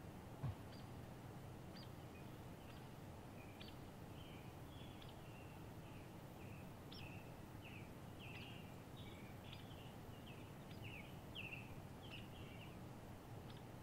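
Faint birdsong: a small songbird's quick run of short chirping notes, with scattered sharp high chips, over a steady low outdoor background. A brief low thump about half a second in.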